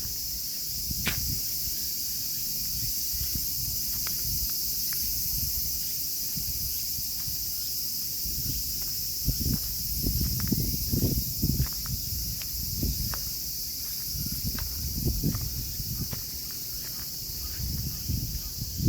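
A steady high, shrill insect chorus, with low rumbling noise underneath that surges unevenly in the middle of the stretch and a few faint clicks.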